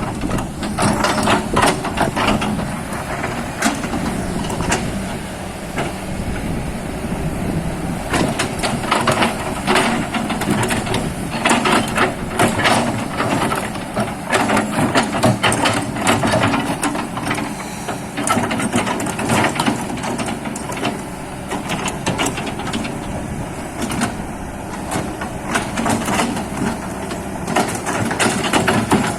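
Excavator running under load, its diesel engine droning steadily, with frequent clanks and knocks from the machine working.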